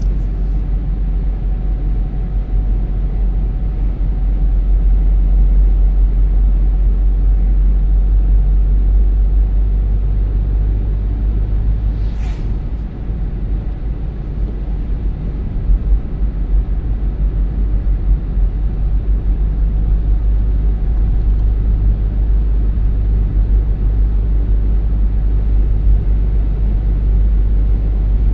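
Car driving at steady speed: a constant low rumble of engine and road noise, with one brief sharp sound about twelve seconds in.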